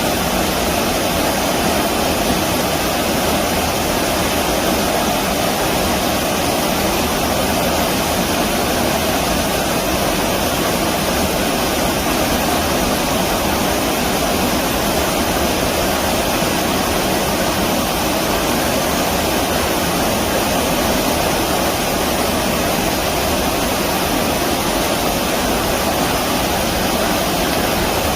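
Stream water rushing steadily, a constant loud wash of noise.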